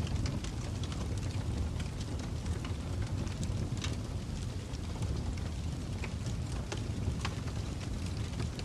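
Fire crackling: a steady low rumble with sharp pops and snaps at irregular moments.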